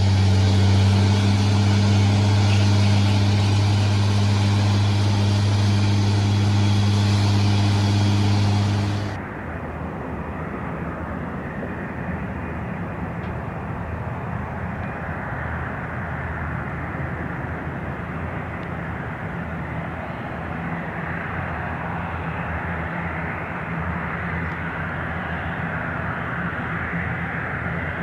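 Dornier 328 regional airliner's engines running: a loud steady drone with a strong low hum for about the first nine seconds, then a sudden cut to a quieter, hissier engine sound that swells slightly near the end.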